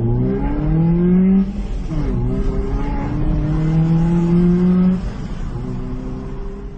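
Car engine breathing through a high-flow air filter, accelerating: its pitch climbs, drops sharply at a gear change about two seconds in, climbs again until about five seconds in, then eases off to a steadier, lower note.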